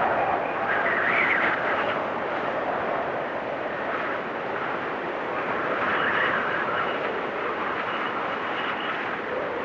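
Blizzard wind blowing in gusts over a steady rush. It swells about a second in and again about six seconds in, its pitch rising and falling.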